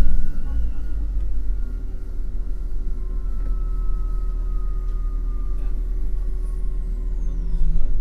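MAN NL253 Hybrid city bus running on the road, heard on board: a steady low rumble with a thin whine that slowly falls in pitch, and a faint high whistle gliding down near the end.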